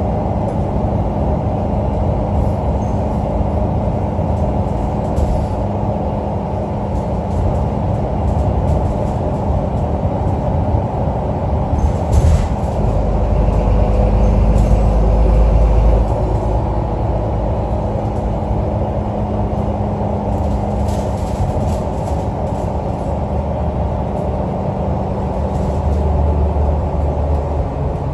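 Alexander Dennis Enviro 500 double-decker bus engine running steadily with a low drone; a deeper hum swells about halfway through and again near the end, with a few brief rattles.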